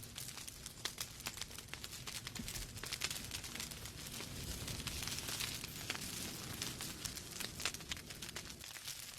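Logs burning in a fireplace: dense, irregular crackles and pops over a soft hiss, the hiss a little stronger around the middle.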